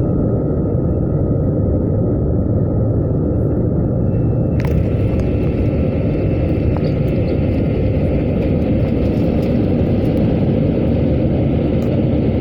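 Airbus A320 cabin noise during takeoff: a steady, loud rumble of the engines and airflow. About four and a half seconds in a sharp click sounds, after which a higher hiss and a faint high tone join the rumble, with scattered small ticks.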